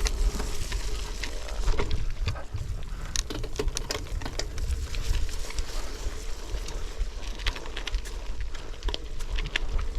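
Gravel bike rolling over a slippery dirt trail: tyre noise and the bike rattling, with many sharp clicks throughout. A low rumble of wind on the microphone runs underneath.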